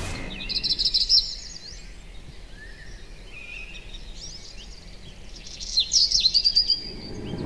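Songbirds singing: quick, high chirping trills in two louder bursts, about half a second in and again near the end, with softer calls between.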